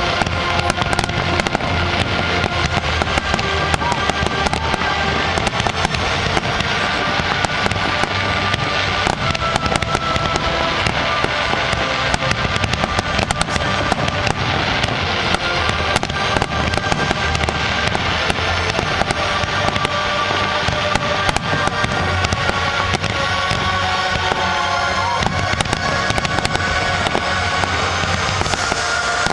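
A fireworks display with a dense run of crackling and popping bursts, with music playing alongside throughout.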